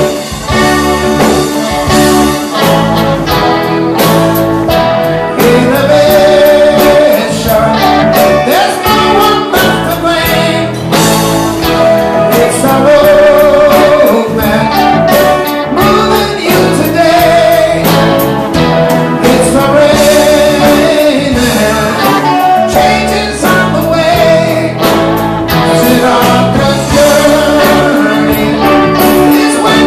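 A live band playing a song loudly, with a sung vocal line over guitar and a steady drum beat.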